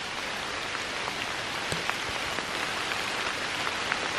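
Steady gentle rain falling, with scattered single drops ticking sharply close by.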